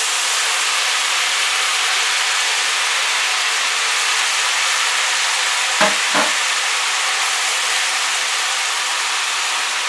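Diced chicken and vegetables sizzling steadily in hot oil in a frying pan over high heat, stirred with a wooden spatula as diced zucchini goes in. About six seconds in there is a brief, sharper knock or scrape.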